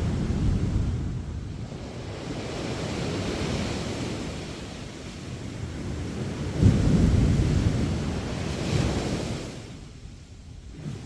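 Sea waves breaking on the beach: one wave crashes right at the start and another about two-thirds of the way through. Each crash is followed by the hiss of surf washing up the sand, and the sound fades near the end.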